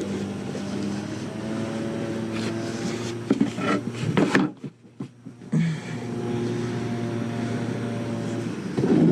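Minivan engine running steadily, with a cluster of knocks and clatter a little before halfway, then a brief gap before the engine hum returns.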